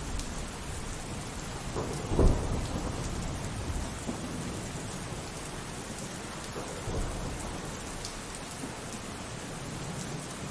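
Steady rainfall with a thunderclap about two seconds in that rumbles away over the next couple of seconds. A fainter rumble of thunder follows near 7 seconds.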